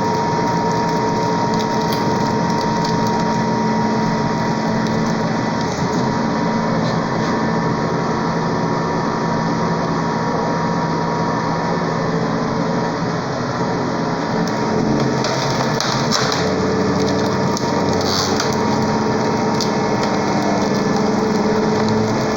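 Hydraulic log splitter running with a steady, loud motor-and-pump hum, with a few crackles of wood giving way about two-thirds of the way through.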